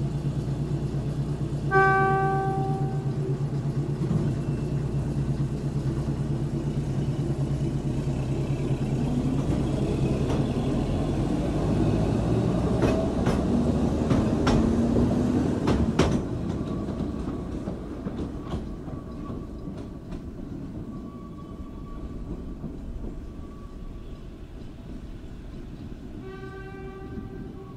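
An Ikawa Line train's diesel locomotive sounds one horn blast and pulls away from the station. The engine runs and the wheels clatter with sharp clicks over the points. The rumble then fades into the distance, and a second, fainter horn blast comes near the end.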